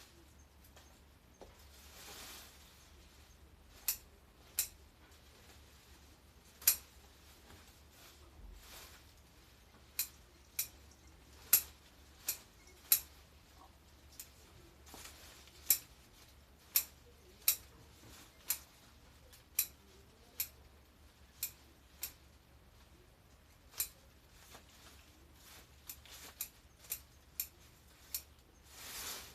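Garden shears snipping branches and stems: about two dozen sharp, irregular snips, sometimes two or three a second. Soft rustling of cut foliage between the snips.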